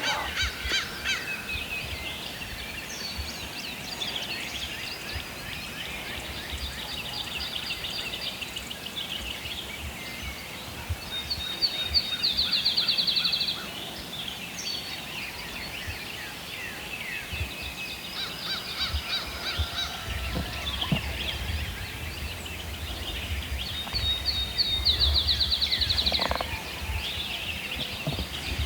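Birds calling and singing throughout, with two loud, rapid, rattling trills about twelve seconds apart, the first about twelve seconds in and the second near the end.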